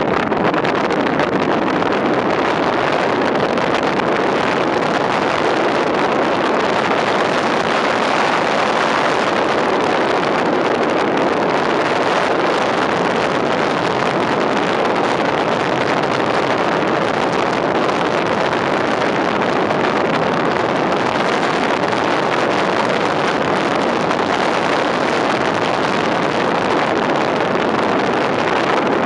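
Horrific, loud, steady rush of wind noise from a car driving along, an even roar that covers any engine or tyre sound.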